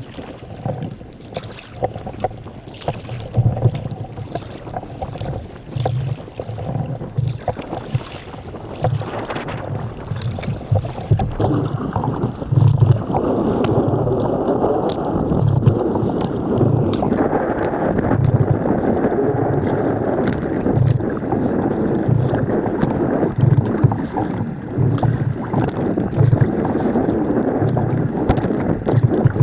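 Wind buffeting the microphone over water splashing and sloshing around a sea kayak on choppy ocean, with irregular low thumps and getting louder about a third of the way in.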